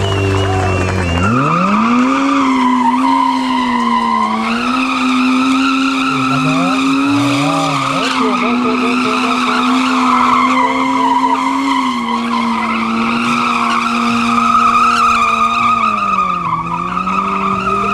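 Sport motorcycle engine revved hard and held at high revs while the rear tyre spins in a burnout circle, with a scrubbing tyre hiss. The revs climb sharply about a second in and sag briefly twice near the end.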